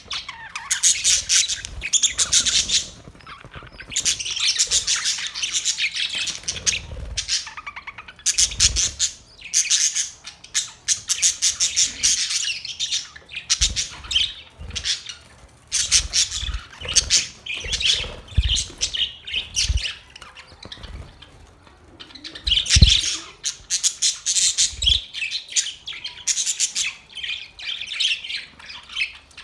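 Australian parrots chattering in rapid runs of high chirps, each run lasting a second or two with short pauses between, and a few low thumps mixed in.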